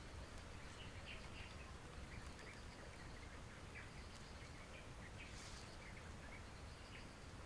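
Faint outdoor background: a steady low rumble with scattered short, high chirps or ticks, and a brief rustle about five seconds in.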